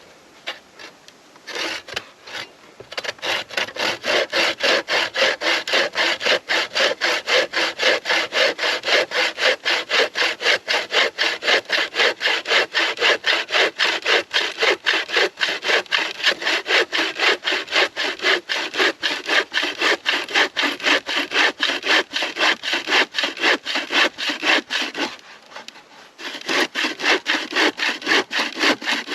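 Hand saw cutting through wood with quick, even back-and-forth strokes. The sawing starts about three seconds in, stops briefly near the end, then starts again.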